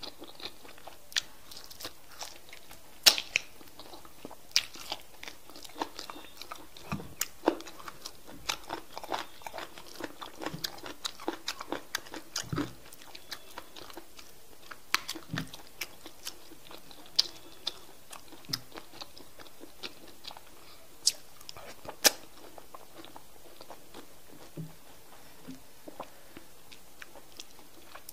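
Close-miked eating: wet chewing of semolina fufu and okra soup, with irregular sharp mouth clicks and lip smacks.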